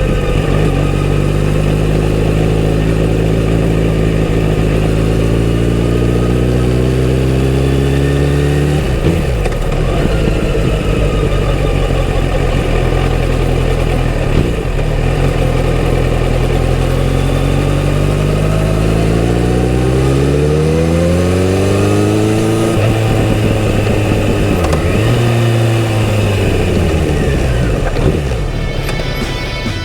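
Kawasaki Z900RS's inline-four engine through its stock exhaust while riding: the pitch climbs steadily under throttle for the first several seconds, drops away, then rises twice more later on.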